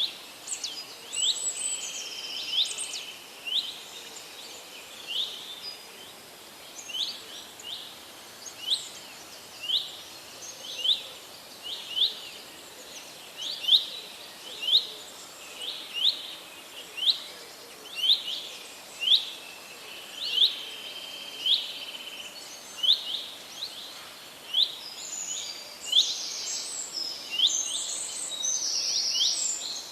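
Songbirds chirping: one bird repeats a short, sharp high call about once a second, while others chirp more densely near the start and again near the end, over a faint steady background hiss.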